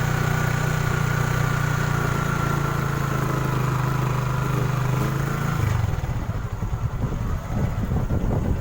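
Motorcycle engine running at a steady note. A little over halfway through the steady note ends and an uneven low rumble takes over.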